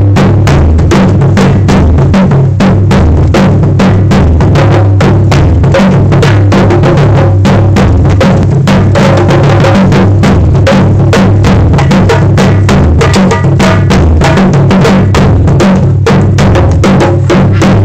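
Loud, fast drumming: many strikes in a dense, driving rhythm with heavy low booming beats.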